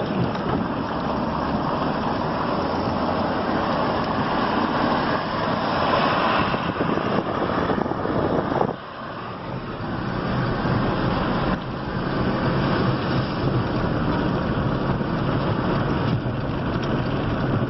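Vehicle creeping in four-wheel drive over a road deep in hail, its tyres crunching steadily over the hailstones and through standing water, with the engine running under it. The noise dips briefly about halfway through.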